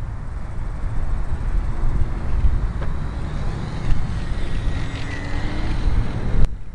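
Wind buffeting the microphone in a steady low rumble, with the faint whine of a micro RC airplane's electric motor and propeller changing pitch as it flies past in the second half. The rumble drops off suddenly near the end.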